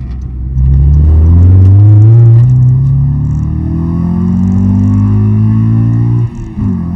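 9th-generation Honda Civic Si's 2.4-litre four-cylinder with an aftermarket downpipe and exhaust, accelerating: the engine note climbs steadily in pitch, climbs again more slowly, then drops briefly near the end and holds steady.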